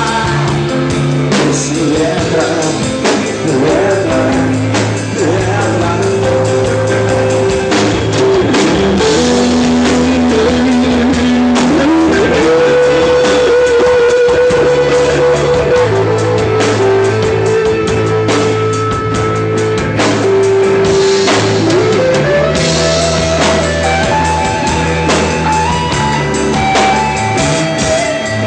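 Rock band playing a song: guitars over a steady bass line and drum kit, with long held melody notes.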